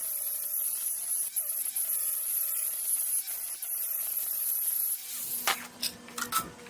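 A power tool running steadily with a high whine and a wavering tone, cutting out about five seconds in, followed by a few sharp clicks and knocks.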